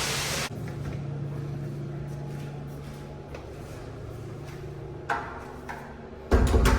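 In a public restroom a loud rushing, flush-like noise cuts off abruptly about half a second in. A steady low hum follows with a couple of light knocks, then a loud thump near the end.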